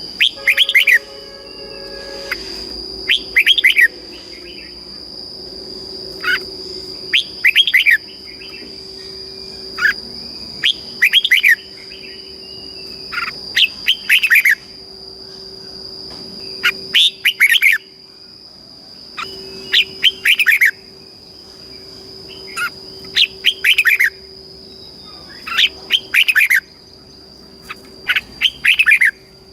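Red-whiskered bulbul singing short, bright phrases of quick falling notes, repeated about every three seconds, over a steady high-pitched tone.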